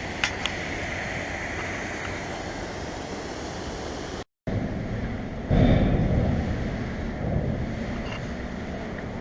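Steady rushing water of a waterfall. After a short break about four seconds in, a louder low rumble with wind buffeting the microphone.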